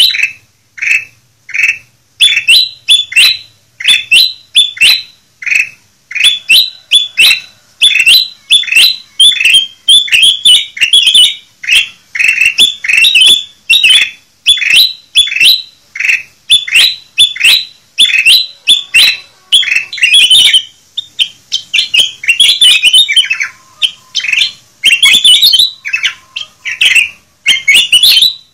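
Kutilang emas bulbul calling over and over: loud, short chirping phrases, one to two a second, without a break.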